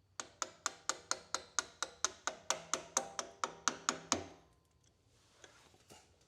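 Hammer tapping a punch to drive out the brake caliper's small pad-retaining pins: a quick, even run of metallic taps, about five a second, that stops about four seconds in.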